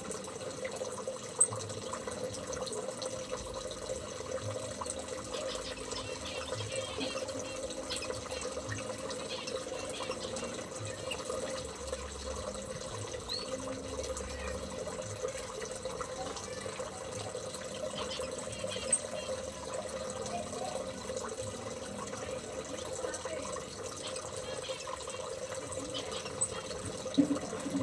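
Steady trickling, running water, with three short sharp clicks, one soon after the start, one about midway and one near the end.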